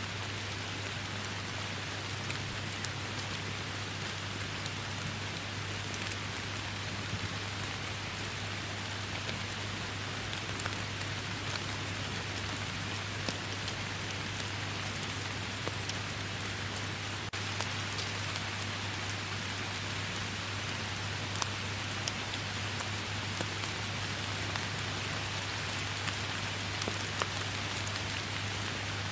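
Steady rain falling in a forest, an even hiss with scattered individual drops ticking close by. A steady low hum runs underneath.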